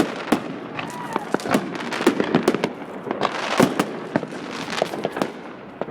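Fireworks going off: a dense, irregular run of sharp pops and bangs, one after another with no steady rhythm.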